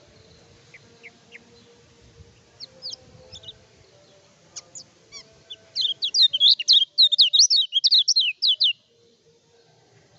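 Kecial kuning, a small white-eye songbird, singing: a few scattered short, high chirps, then about three seconds of loud, rapid warbling in quick rising and falling notes that stops abruptly.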